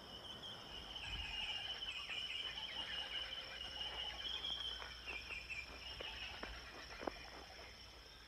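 Insect chorus: a steady high-pitched trilling that goes on unbroken, with a few faint clicks.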